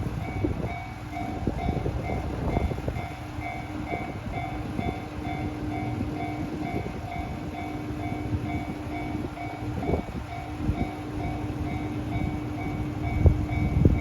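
KiHa 122 series diesel railcar running, a steady low rumble carrying several held tones, some of them pulsing evenly, with occasional knocks.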